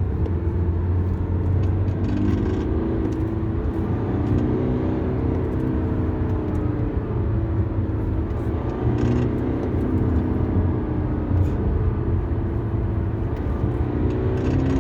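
BMW 320d four-cylinder diesel pulling under hard acceleration, with a low rumble and a rattling 'ppudeudeudeu' from the middle underside of the car. The rattle comes from a parking-brake cable whose retaining clip has broken, letting the cable slap against the propeller shaft under load.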